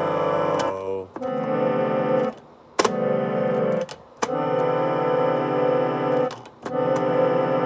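Electronic keyboard playing long held chords, each cut off by a short gap before the next, with a sharp click just before the third chord.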